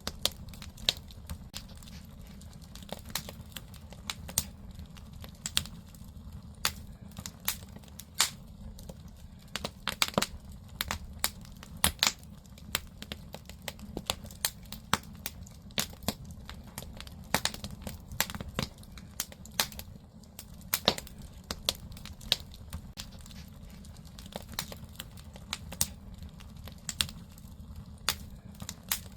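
Firewood burning in a traditional Korean agungi firebox: irregular sharp crackles and pops, several a second, over a steady low rumble of the fire.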